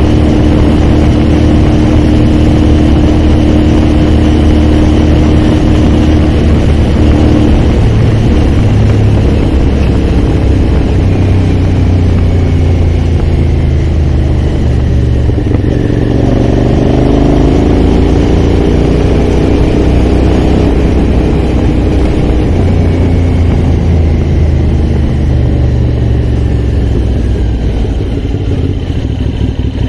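Aprilia Shiver's V-twin engine running under way, its note changing pitch as the rider shifts and varies the throttle, rising and then falling in the middle.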